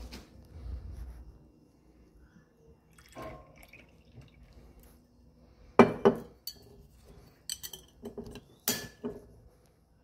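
Glass bottles and a drinking glass clinking and knocking as they are handled, a few separate clinks with the loudest about six seconds in and another cluster near the end.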